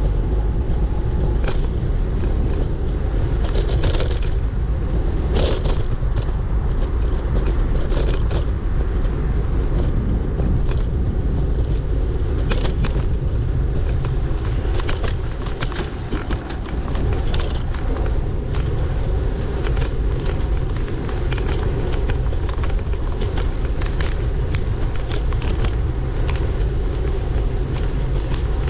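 Steady low rumble of a moving bicycle ride, with frequent sharp clicks and rattles throughout.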